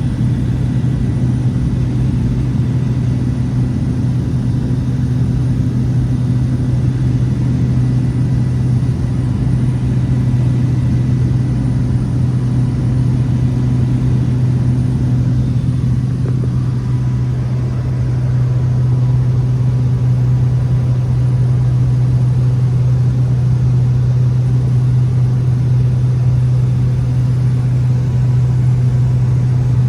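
Cessna 208 Caravan's single turboprop engine and propeller running with a loud, steady drone.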